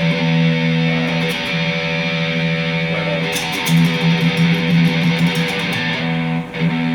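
Electric guitar picking a repeated low note fast, in runs of a second or two broken by short pauses.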